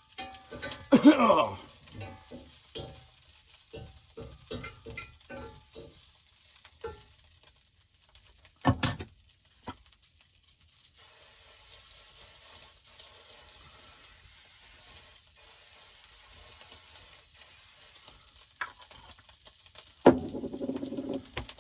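Food sizzling in a frying pan, the fizzing steady over the second half, with utensil and pan noises: a loud scrape about a second in, a run of light taps, a sharp knock, and a clatter near the end.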